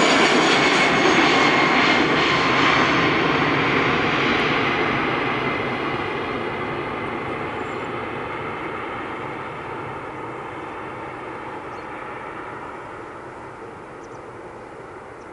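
Airbus A320-211 with two CFM56-5A1 turbofan engines at takeoff power, climbing away and fading steadily. The high-pitched whine drops out within the first few seconds, leaving a lower rumble that keeps fading.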